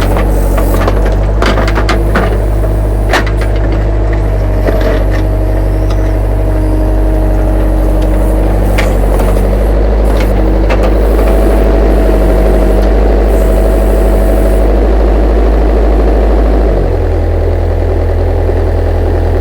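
Small excavator engine running under load with a hydraulic whine, as the bucket digs; knocks and cracking of wood and soil in the first half. About 17 seconds in the engine drops to a lower idle.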